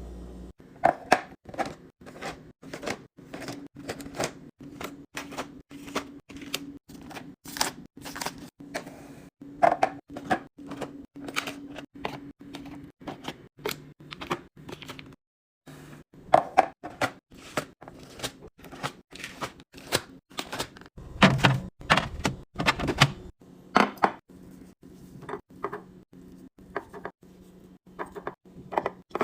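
A quick, irregular run of clicks, taps and knocks, a few every second, from food containers and packaging being handled and set down while a fridge is restocked. The knocks are loudest a little past the middle, over a faint steady hum.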